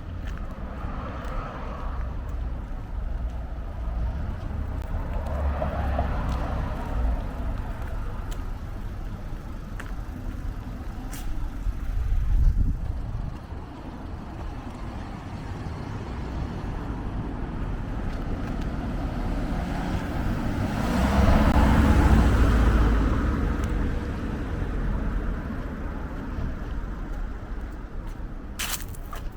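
Road traffic: cars passing one after another on a street, with a steady rumble between them. The loudest passes come about twelve seconds in and around twenty-two seconds in.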